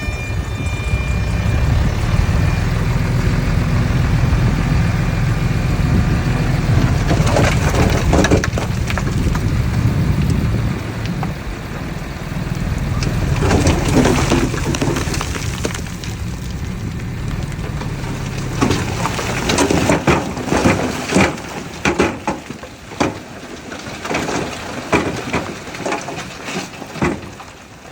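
Diesel engine of heavy earthmoving machinery running with a low rumble that eases off about halfway through, while soil and debris crunch and crack in irregular clusters of sharp snaps, thickest in the second half.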